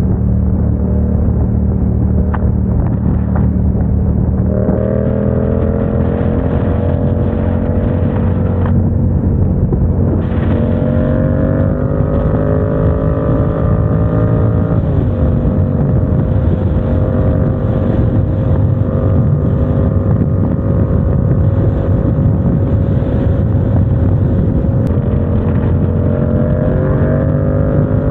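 Motorcycle engine running under way, with wind and road rumble. Its pitch steps up suddenly about four and a half seconds in and again around ten seconds, eases slightly near fifteen seconds, and climbs again near the end, as the revs change with throttle and gears.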